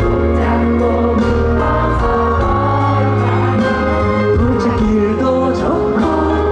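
Live pop band music with singing over a steady bass line, played loud through a concert sound system.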